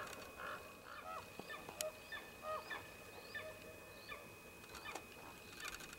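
Scavenging birds, ravens among them, calling around a carcass: many short, overlapping calls that slide down in pitch, with a sharp click a couple of times.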